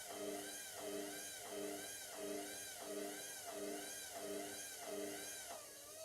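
Indesit washing machine's drum motor turning the drum slowly, its whine rising and falling with every turn, about three times every two seconds, as it tries to balance a single-item load before spinning. Near the end the rhythm breaks and the drum slows.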